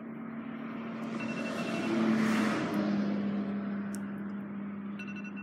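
A vehicle passing by: a broad rush of road noise that swells to its loudest a little past two seconds in and then fades, over a steady low hum.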